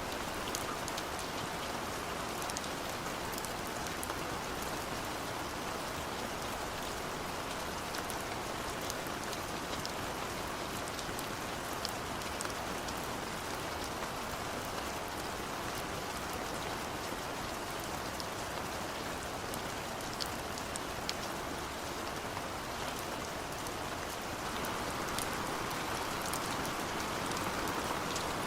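Steady rain falling: a dense, even hiss sprinkled with many small drop ticks, swelling slightly near the end.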